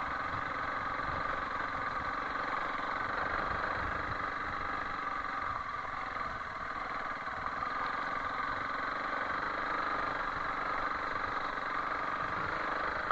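Honda CRF300L Rally's single-cylinder engine running steadily as the motorcycle is ridden along a rough dirt track.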